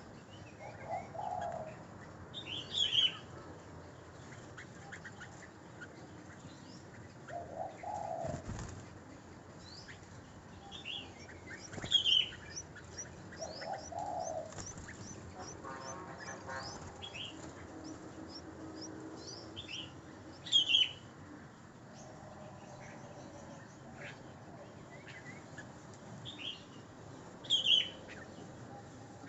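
Birds calling: a stream of faint high chirps, with a loud, sharp chirp about every eight seconds and, now and then, lower, softer calls.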